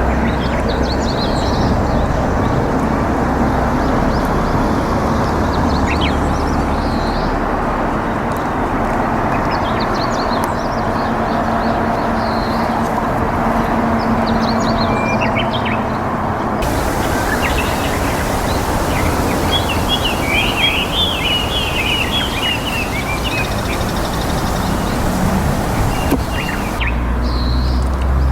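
Small birds chirping now and then over a steady rushing background noise, with a busier run of chirps about two-thirds of the way in. A low rumble sits under the noise at the start and comes back near the end.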